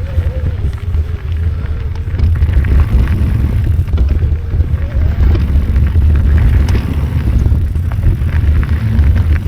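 Mountain bike ridden along a dirt trail: steady wind rumble on the microphone, with tyre noise and scattered rattling clicks from the bike.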